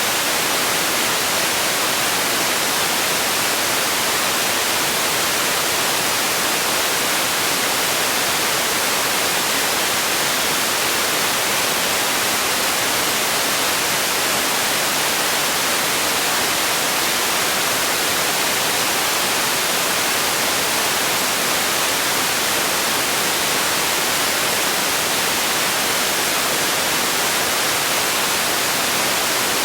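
Steady white noise for sleep: an even, unbroken hiss, strongest in the treble, with no change throughout.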